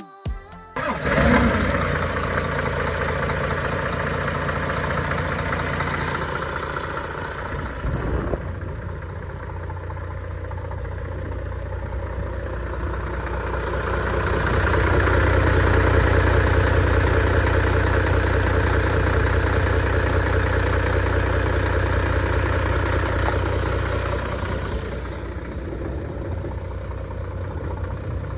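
Diesel engine of a 2005 Isuzu FTR750 truck starting about a second in, then running steadily. It runs louder for about ten seconds from around the middle before settling back to a lower level.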